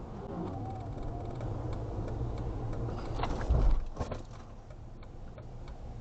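Car driving, steady road and engine rumble heard from inside the vehicle, with a loud low thump about three and a half seconds in.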